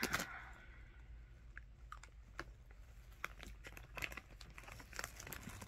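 A person chewing a jelly bean: faint, irregular small mouth clicks, a few each second.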